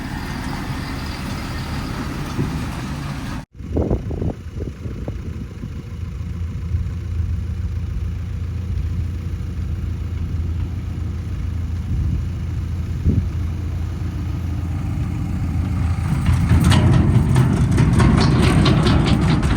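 Heavy diesel engine of construction or farm machinery running steadily. The sound cuts out briefly about three and a half seconds in, and near the end the engine grows louder and rougher, with rattling.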